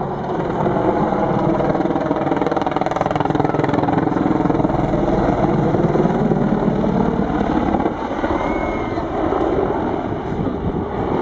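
Boeing AH-64 Apache attack helicopter in flight, its rotor and turbine engines running loud and steady, the pitch slowly rising and falling as it manoeuvres; the sound drops slightly about eight seconds in.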